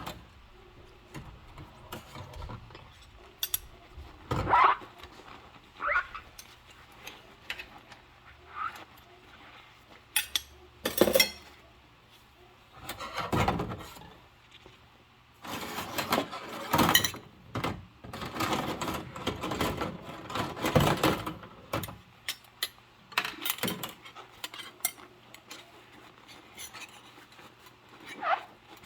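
Dishes being washed by hand in rubber gloves: dishes and cutlery knocking and clinking, stretches of scrubbing, and several short squeaks of the gloves on wet surfaces.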